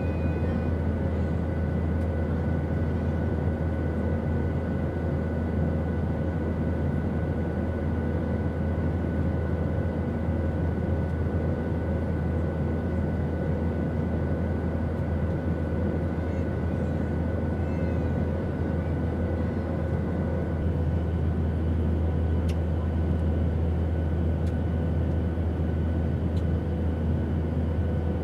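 Steady airplane noise: a deep, even rumble with a hiss over it and a few faint steady tones. The higher tones shift slightly about two-thirds of the way through.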